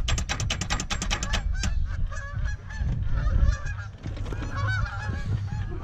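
Starter motor cranking a seized Subaru engine with a broken piston. It gives a fast, even clatter for about a second and a half, then the engine stops turning and the straining starter gives repeated short squeaks over a low hum.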